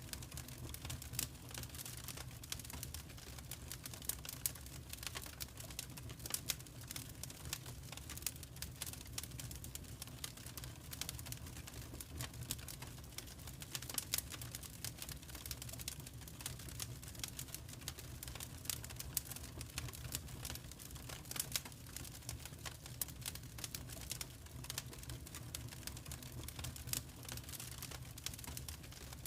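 Wood fire crackling and popping: a dense, irregular run of sharp little cracks, with a few louder pops, over a low steady hum.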